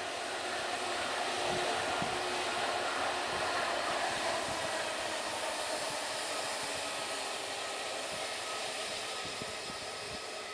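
Airliner engine noise: a steady rush with faint whining tones that slowly fades away toward the end.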